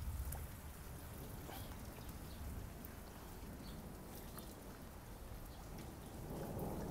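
Steady heavy rain falling, an even hiss with scattered drops ticking close by. A low rumble builds near the end.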